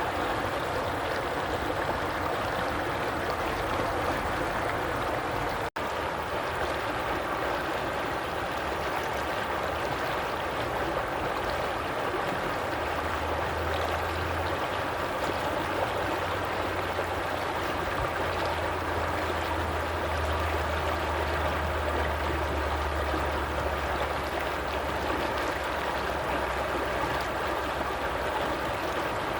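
Water flowing in a stream, a steady even rush with gurgling, broken by a split-second dropout about six seconds in. A low hum joins about halfway through and fades near the end.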